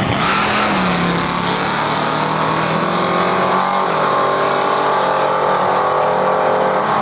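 A car engine running at fairly steady revs, its pitch easing down slightly about a second in and again about four seconds in.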